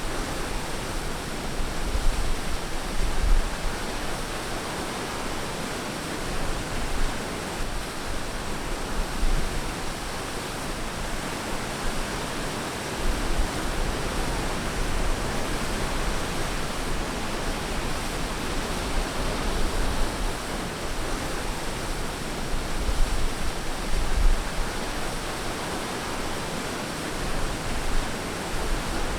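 Ocean surf washing onto a beach: a steady rushing hiss that swells a little now and then.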